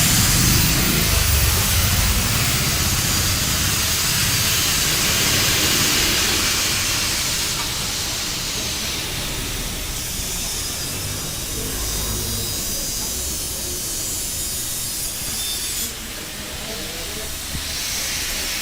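A steady hiss with a low rumble underneath, slowly easing in level.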